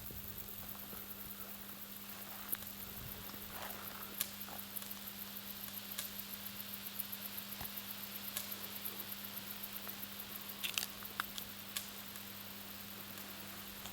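Wires of a 500 kV overhead power line humming steadily, with a fast, even run of faint crackling ticks and, every second or two, a sharper click: the 'knocking' of the conductors. The clicks come thickest about eleven seconds in.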